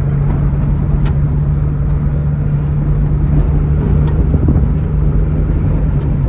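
Truck engine running at a steady speed with a low, even drone and road rumble, heard from inside the moving truck.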